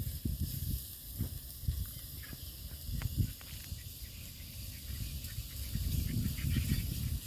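Minced meat and onions sizzling in a pan with a steady hiss, over irregular low rumbling thumps.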